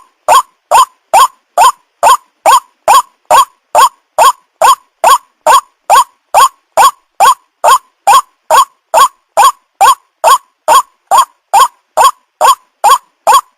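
White-breasted waterhen (ruak-ruak) calling: a loud, short, rising note repeated evenly about twice a second, every call alike.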